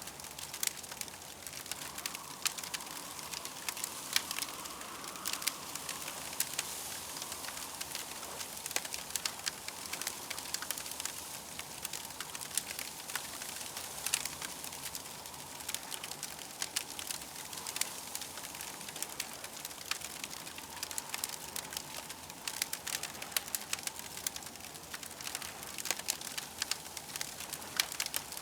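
Campfire crackling steadily: many irregular small pops and snaps over a soft hiss.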